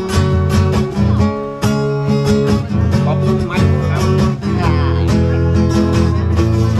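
Live blues guitar, strummed in a steady rhythm with held chords over low bass notes.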